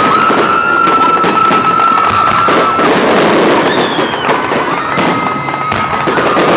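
Fireworks display: dense, rapid crackling and popping of bursting shells. A long, steady high tone is held through the first half and comes back about five seconds in.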